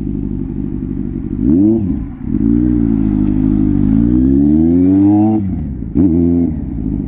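Superbike engine with an SC Project exhaust idling and being revved in place: a quick blip, then a longer rev that climbs and holds for about three seconds before dropping back, and another quick blip near the end.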